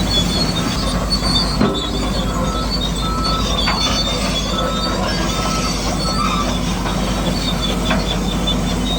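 Radio-controlled construction machines working: a steady hum of small electric motors and gearboxes, with intermittent high-pitched squeals and a few sharp clicks from the metal tracks and gears.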